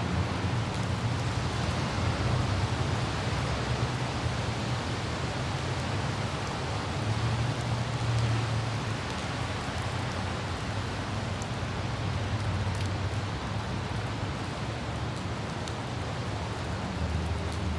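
Steady light rain hiss with a low, even rumble of a car driving on a wet road and wind noise. The rumble swells and eases slightly, and a few faint droplet ticks sound over it.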